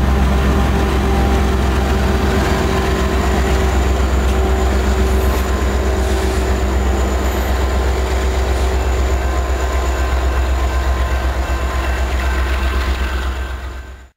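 BNSF freight train of coal cars passing and moving away. The diesel locomotive's engine drone is strongest at first, over a steady low rumble of wheels on rail, and the sound fades out just before the end.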